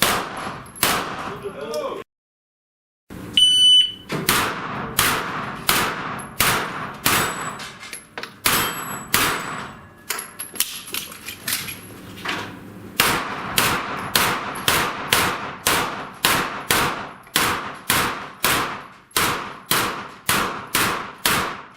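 Electronic shot-timer start beep a few seconds in, just after a brief dropout. It is followed by a long string of rapid pistol-calibre gunshots at steel targets, about two to three a second, with short pauses between bursts.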